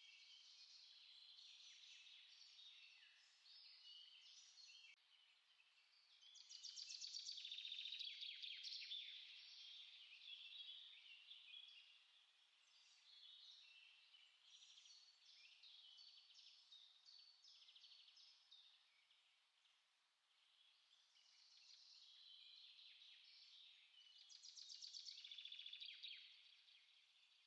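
Small songbirds singing quietly: a continuous chorus of high chirps and twitters, with two louder rapid trilling phrases, one about six seconds in and one near the end.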